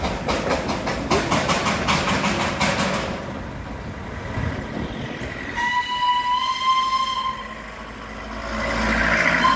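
Darjeeling Himalayan Railway narrow-gauge toy train running past with a fast, even rhythmic clatter that fades after about three seconds. About halfway through a single high horn sounds for just under two seconds, and another horn blast starts right at the end.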